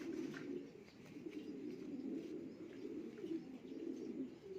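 Racing pigeons cooing continuously in a low, wavering warble.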